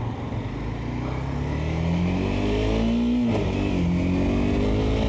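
Motorcycle engine pulling away and accelerating, its note climbing steadily, then dropping sharply about three seconds in as the rider shifts up a gear and climbing again under throttle.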